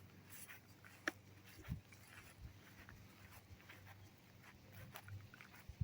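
Near silence with a few faint, sharp clicks and a soft low thump.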